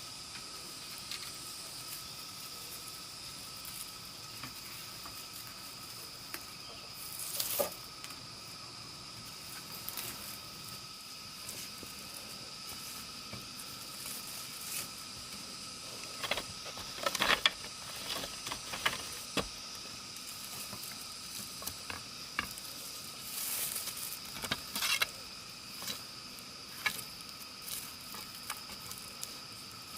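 Steady insect chirring with two held, high tones. Short rustles, clicks and knocks come and go on top, in a burst about a quarter of the way in, a denser cluster a little past halfway, and another about three quarters through.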